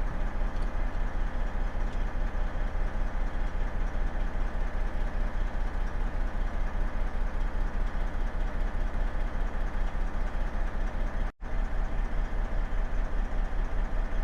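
Semi truck's diesel engine running, heard from inside the cab as a steady low throb. The sound cuts out for an instant about eleven seconds in.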